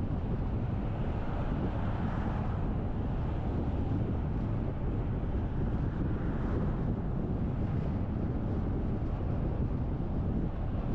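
Steady low rumble of a car driving, road and wind noise, swelling briefly about two and six seconds in.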